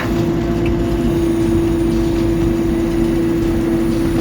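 Backhoe engine running steadily, a constant drone with one strong steady tone over a low rumble.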